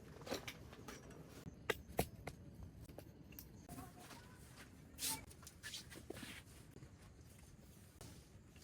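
Faint scattered clicks, light knocks and brief rustles of handling, with soft background hiss.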